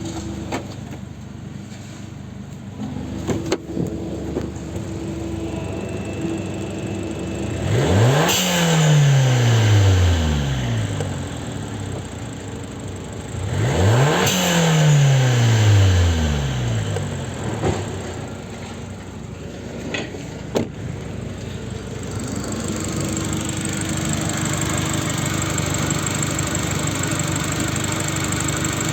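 Fiat Bravo mk2 1.4 T-Jet turbo petrol four-cylinder (198A1000) idling, blipped twice, about six seconds apart, each rev climbing quickly and dropping back to idle. It runs a little louder and steadier for the last several seconds.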